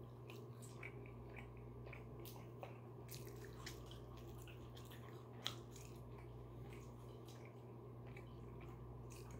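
A person chewing a chicken salad sandwich: many soft wet mouth clicks, with one sharper click about five and a half seconds in, over a steady low hum.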